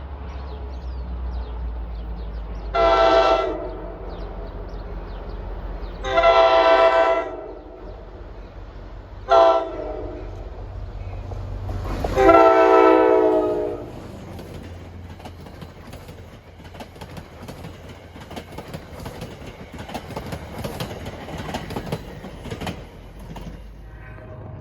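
NJ Transit diesel commuter train's multi-chime horn sounding the grade-crossing signal, long, long, short, long, over the low rumble of the locomotive working hard up a grade. After the last blast the engine fades and the cars clatter past on the rails.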